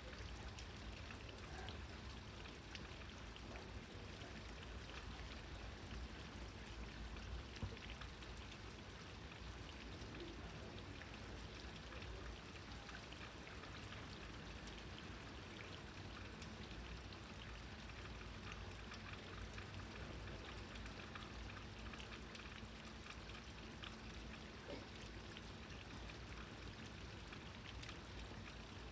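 Steady rain falling, a dense patter of individual drops over an even hiss, with one louder single tap about seven and a half seconds in.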